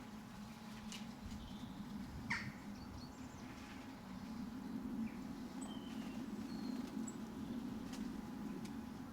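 Faint garden birds giving a few short chirps and calls, including one sharper downward-sweeping call about two seconds in, over a steady low rumble.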